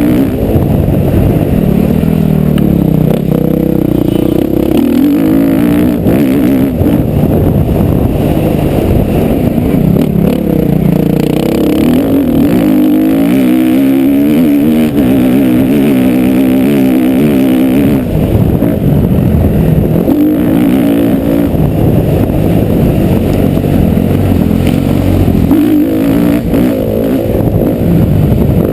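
Motocross bike engine revving hard, its pitch repeatedly rising and falling as the throttle opens and closes and the bike goes through the gears.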